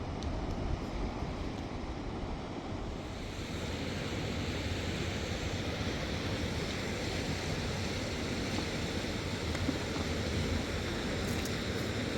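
Steady wind rushing and buffeting over the microphone, growing brighter and hissier about three seconds in.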